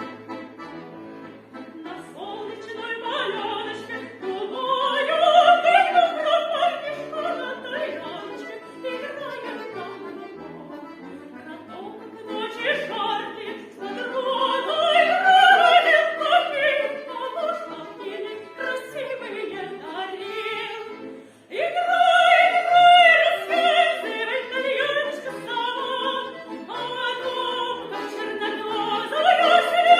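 A female solo voice sings a song with vibrato over instrumental accompaniment, which may be an accordion. The music starts from silence at the very beginning.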